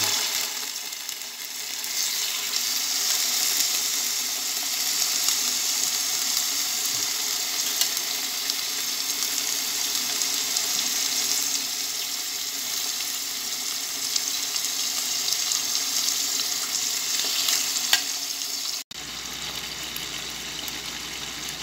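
Chicken pieces frying in olive oil in a pan: a steady, loud sizzle. It breaks off for an instant near the end and comes back a little quieter.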